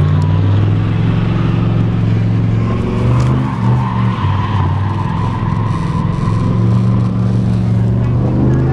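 Vehicle engine held at high revs with tyres squealing, a burnout: a loud steady engine drone that dips briefly a few seconds in, with a tyre screech through the middle.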